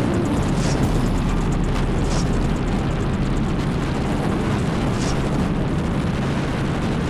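Helicopter in flight heard from on board: steady, loud rotor and engine noise mixed with wind rush. Three short, sharp snaps stand out, about one, two and five seconds in.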